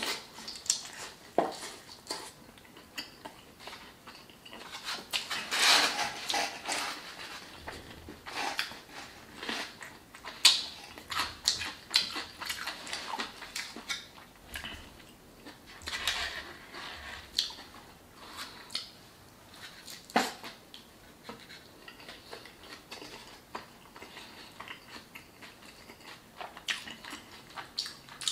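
Close-miked eating sounds: biting and chewing a consommé-dipped birria taco, with wet mouth sounds and many short sharp clicks throughout.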